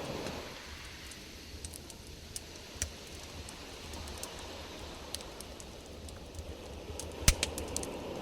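Campfire crackling: scattered sharp pops and snaps of burning wood, with a loud cluster of pops near the end, over a low steady rumble of wind on the microphone.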